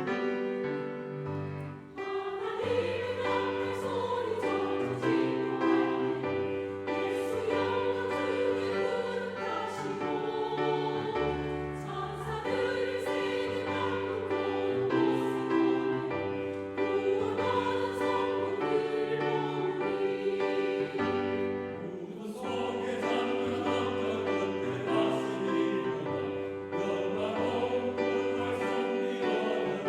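Church choir singing a hymn-anthem over an instrumental accompaniment.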